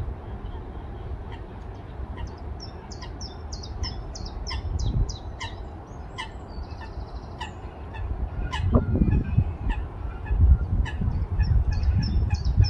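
Wild birds singing: quick runs of short, high notes, each dropping in pitch, a few to the second, with one lower call sliding steeply down in pitch about halfway through. Wind rumbles on the microphone underneath, growing louder in the second half.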